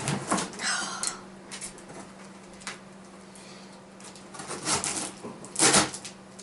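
Packing tape on a large cardboard box being cut with scissors and torn off, in scattered scrapes and rips, the loudest near the end.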